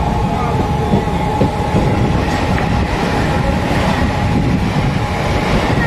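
Mumbai suburban local train running at speed, heard from on board: a steady loud rumble and clatter of wheels on the track, with a constant high whine over it.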